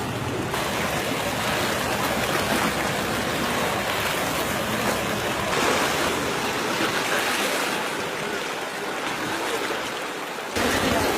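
Floodwater rushing in a steady wash of water noise; about ten and a half seconds in it gets suddenly louder and fuller.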